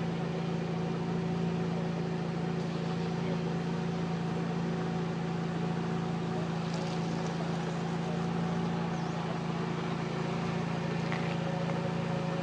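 A small engine running steadily at a constant speed, a low hum with no revving.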